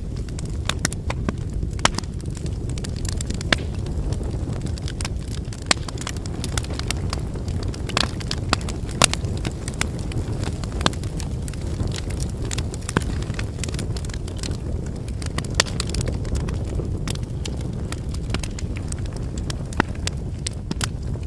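Wood campfire burning: a steady low rumble of flames with frequent crackles and a few sharper pops from the burning firewood.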